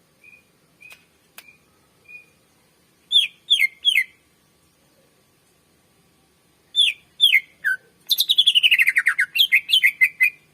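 Cucak ijo (greater green leafbird) singing. First come a few faint short whistles, then two sets of three loud, sharp down-slurred notes, and near the end a fast rattling run of notes that slides down in pitch and then climbs back up.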